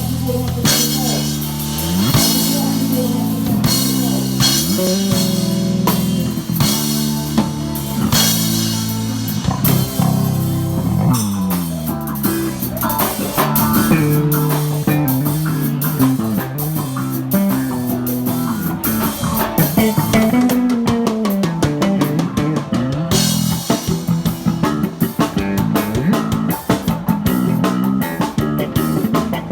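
A band playing instrumental rock: bass guitar lines with sliding notes and guitar over a drum kit with cymbal hits.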